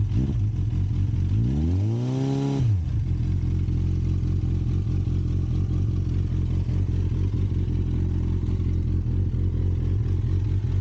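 Suzuki GSX650F inline-four running through a Yoshimura exhaust at cold idle, with a single short blip of the throttle about a second and a half in. The revs rise and fall back within about a second, then the engine settles to a steady idle.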